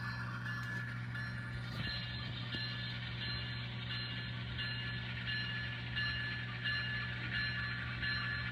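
Sound-equipped NS HO scale model diesel locomotive playing its bell, ringing steadily about two and a half strokes a second, over a steady low engine hum from the model's small speaker.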